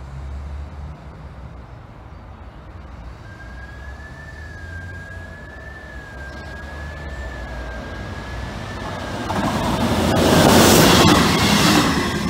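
A train passing through the station at speed: its rumble grows as it approaches, rises to a loud rush as it goes by near the end, then begins to fade. A thin, high whine that wavers slightly in pitch is heard for several seconds as it approaches.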